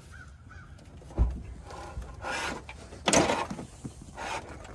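Knock and scraping rubs of panels and parts of a rear-projection TV being worked apart by hand: a low knock about a second in, then several short scrapes, the loudest a little after three seconds.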